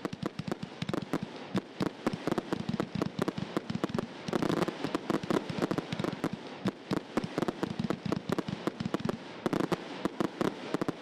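Fireworks going off in a dense, rapid barrage of sharp bangs and crackles, many per second without a break.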